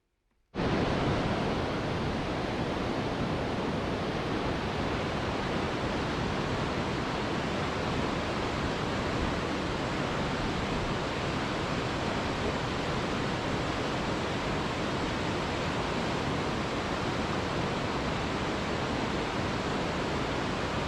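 Steady, even hiss of heavy rain that starts abruptly about half a second in and holds unchanged.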